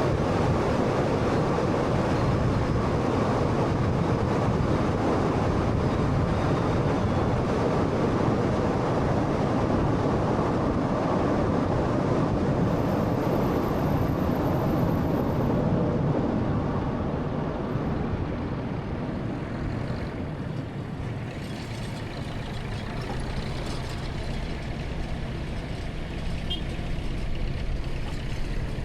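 Road and tyre noise of a 2013 Honda Fit driving, a steady rush that gets quieter about two-thirds of the way through.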